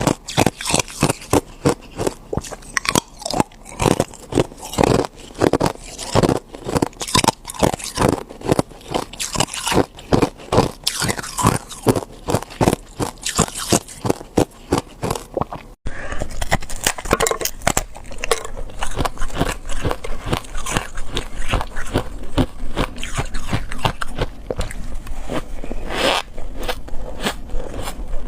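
A person biting and chewing ice close to the microphone, with rapid, dense crunching. About halfway through the sound drops out for an instant and resumes with softer crunches over a steady low hum.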